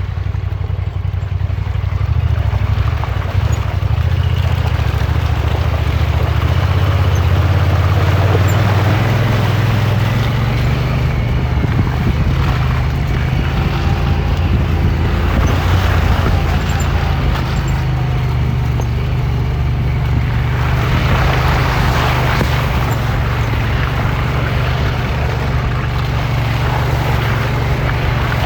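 Side-by-side UTV engine running steadily under low-speed trail driving, its pitch rising a little about eight seconds in, with a stretch of rougher rushing noise around twenty seconds in.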